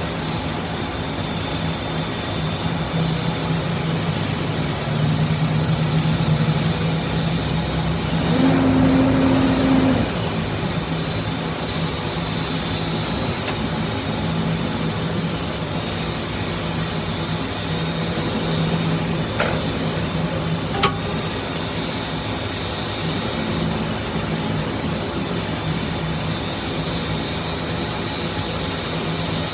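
Pushback tug's engine running steadily with a low hum, under a faint steady high whine. The hum swells briefly about eight to ten seconds in, and there is a single sharp click about twenty-one seconds in.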